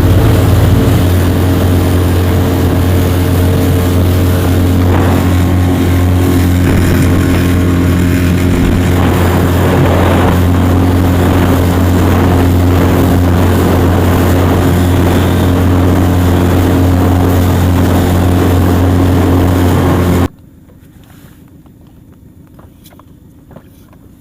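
Outboard motor driving an inflatable boat, running steadily at speed with a low hum under wind and water noise. It cuts off suddenly about twenty seconds in, leaving only faint wind and water.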